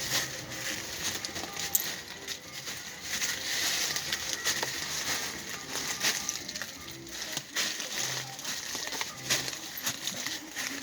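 Irregular crunching footsteps over a steady hiss, with a radio playing music faintly.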